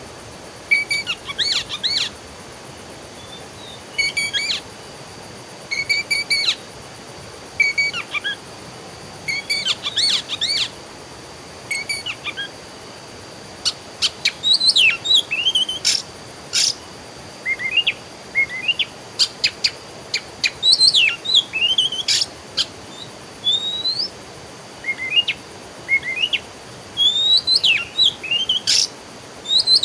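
Songbirds chirping and singing in short phrases: a repeated short phrase about every two seconds at first, then quicker, more varied chirps with sweeping notes, over a steady faint hiss.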